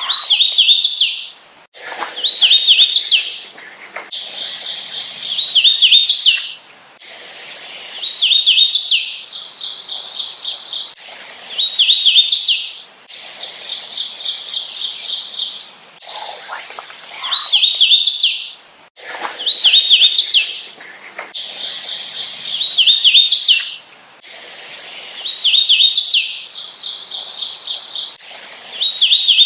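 Hooded warbler singing its clear, whistled song over and over, one phrase every two to three seconds, each a run of slurred notes ending on a higher note. A faster, even trill sounds between some of the songs.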